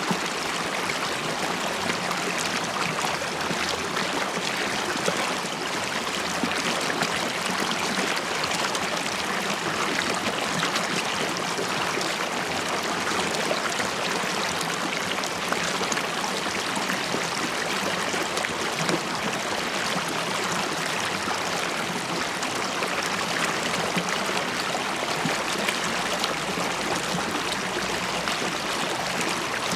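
River water flowing and bubbling over stones, a steady rushing with small splashes and gurgles throughout.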